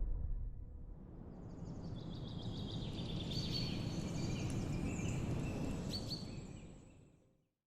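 Small birds chirping and twittering in quick high trills over a steady outdoor rumble, fading out near the end.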